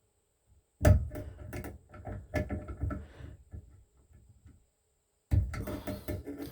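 Clicking and knocking of the plastic hot-water limit piece on a Delta shower valve being pinched and fitted by hand: a run of sharp clicks for about three seconds, a pause, then more clattering near the end.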